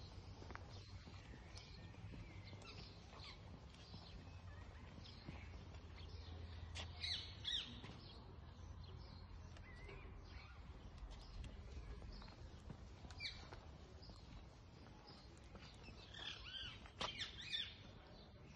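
Birds chirping and calling in short, scattered high notes, with louder calls about seven seconds in and again near the end, over a faint low hum.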